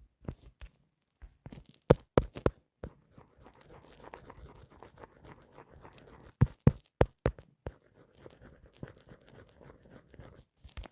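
Irregular sharp taps and clicks, with faint rustling and scratching between them, like objects being handled; the loudest taps come in quick clusters about two seconds in and again around six to seven seconds in.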